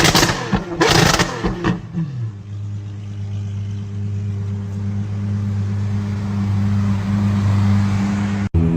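Lamborghini exhaust revving hard with crackles, the revs falling away after about two seconds into a steady idle. It cuts off abruptly shortly before the end.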